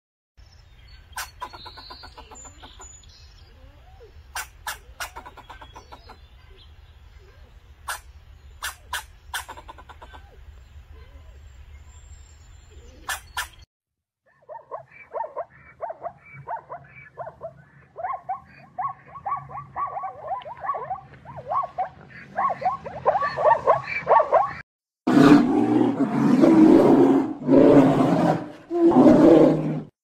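Zebra braying: a rhythmic run of short, repeated barking calls that grows louder. It is followed by loud, deep roars near the end, after faint clicks over a low hum in the first half.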